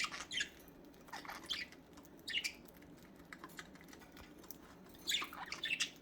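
Pet budgies (budgerigars) giving scattered short chirps and squawks, with a quicker cluster of calls near the end.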